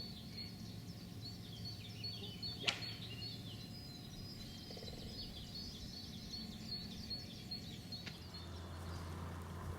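Faint birdsong: many short, high chirps over a steady low hum, with one sharp click a little under three seconds in.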